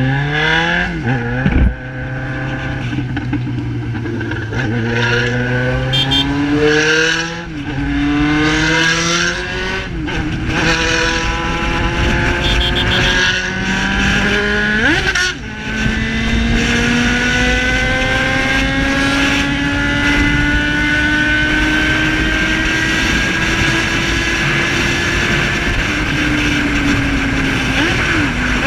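Yamaha XJ6 inline-four through an Atalla 4x1 sport exhaust, accelerating hard. It revs up and upshifts about five times in the first fifteen seconds, then pulls long and steady in a high gear, with another shift near the end.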